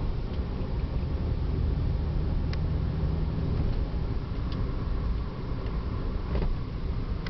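The 2005 Mercedes-Benz SLK350's 3.5-litre V6 engine running steadily, with two faint clicks partway through.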